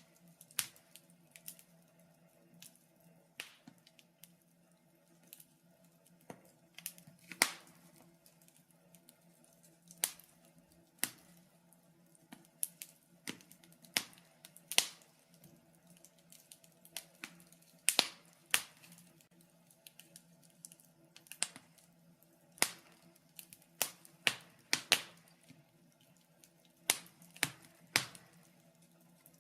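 Wood fire crackling: irregular sharp pops and snaps, unevenly spaced, over a faint steady low hum.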